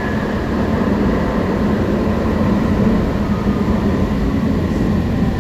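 Alstom Citadis Spirit light-rail train running, heard from on board: a steady rumble of wheels on rail with a faint, thin motor whine above it.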